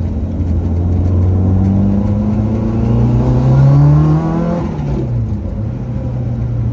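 Lancia Delta Integrale Group A rally car's engine pulling up through the revs under acceleration for about three seconds. The revs then drop sharply and settle back to a steady drone.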